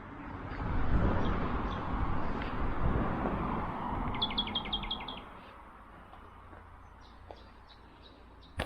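A rushing noise swells for the first few seconds. Over it, a bird calls a quick run of about seven short high notes a little past the middle, followed by faint scattered chirps.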